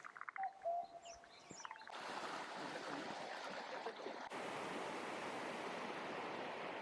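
Flowing stream water, a steady rush that starts abruptly about two seconds in, after a couple of seconds of bird calls.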